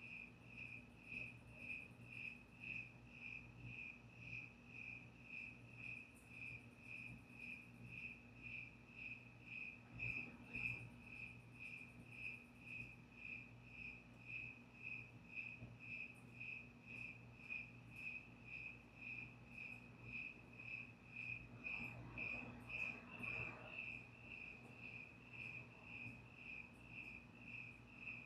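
Cricket chirping steadily at about two chirps a second, with fainter high-pitched insect trills coming and going and a faint low hum underneath.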